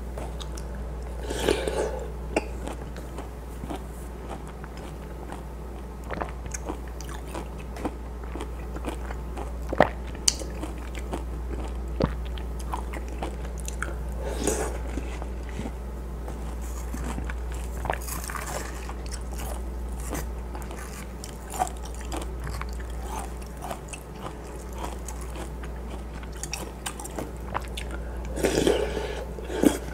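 Close-miked biting and chewing of juicy, crunchy watermelon chunks taken from a wooden spoon, with a few louder bites, over a steady low hum.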